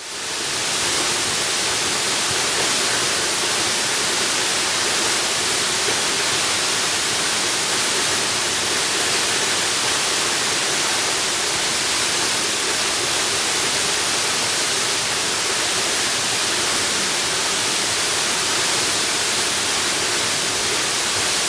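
Waterfall: a steady, even rush of falling water, fading in from silence over the first second.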